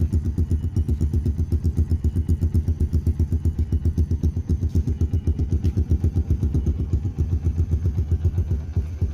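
Yamaha Vixion motorcycle's single-cylinder four-stroke engine idling steadily through an aftermarket Tsukigi SX performance exhaust, an even low pulse of about eight beats a second.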